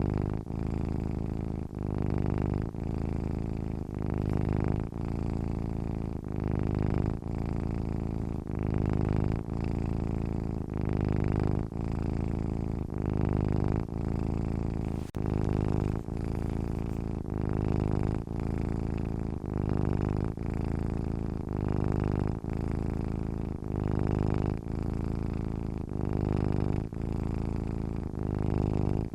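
Domestic cat purring while asleep, a low steady rumble that swells and dips in an even rhythm with each breath in and out.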